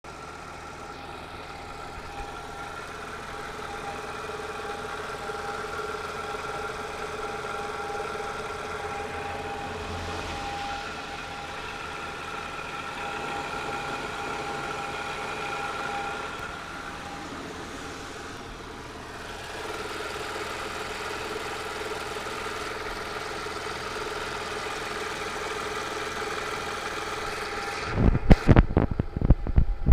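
Audi S4 engine running steadily at idle, with a steady whine that holds one pitch throughout. This whine is the strange sound its owner is asking about, cause not identified. Near the end comes a burst of loud, irregular thumps.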